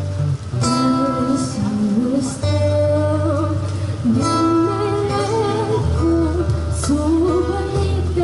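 Live street music: strummed acoustic guitar with a singer's melody over held low bass notes.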